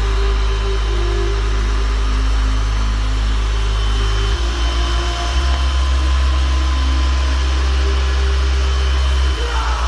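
Grundig 21.6 V cyclonic cordless stick vacuum cleaner running steadily, a motor hum with a thin whine over rushing air; its tone shifts about four seconds in.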